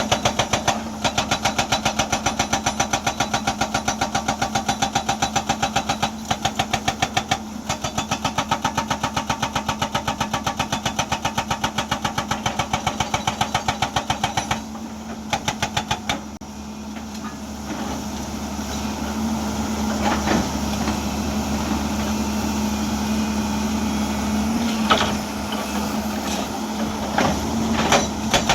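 Hydraulic breaker hammer on a Hyundai excavator pounding rock in a fast, even run of blows. The blows stop about halfway through, leaving the excavator's diesel engine running and rising in loudness, with a few single knocks. The hammering starts again at the very end.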